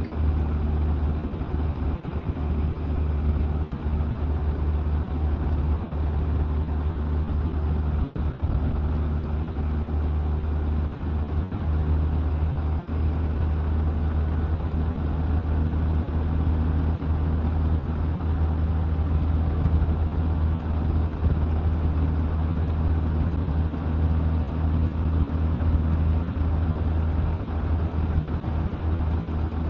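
Motorcycle cruising steadily at road speed: a constant low rumble of engine and rushing wind, with no change in pace.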